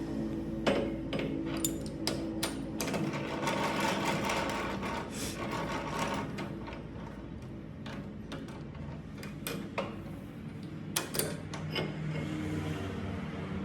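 A machine running steadily with a low hum, with sharp metallic clicks and knocks scattered through it.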